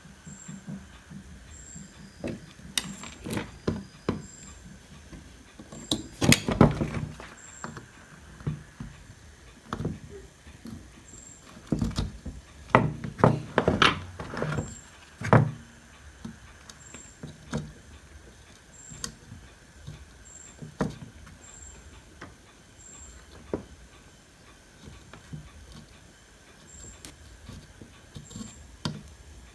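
Scattered clicks, taps and knocks of hand tools on a rusted power supply circuit board, busiest in the first half, over a faint steady high-pitched tone.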